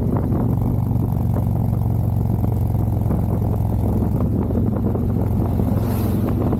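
Harley-Davidson V-twin motorcycle engine running at a steady cruise, a low even rumble, with some wind noise.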